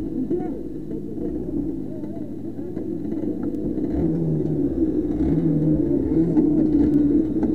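A motor vehicle's engine running steadily under a low rumble, its pitch rising and falling a little a few times in the second half.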